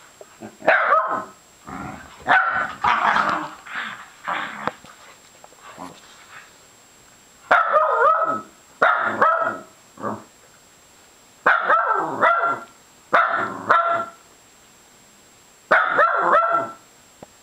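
Dog barking in drawn-out, pitched calls that fall in pitch, in bursts of two or three every few seconds.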